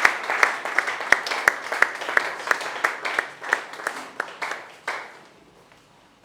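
A congregation applauding, with loud claps coming evenly about three times a second over the general clapping. It dies away about five seconds in.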